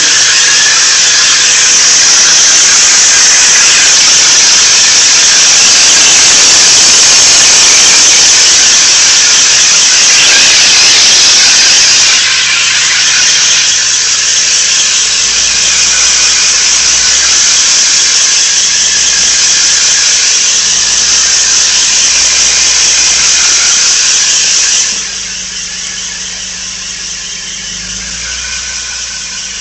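1992 Nissan 300ZX giving off a loud, steady, high-pitched squeal that does not change with engine revs. It eases slightly about twelve seconds in and drops off sharply near the end. The cause is unknown to the owner.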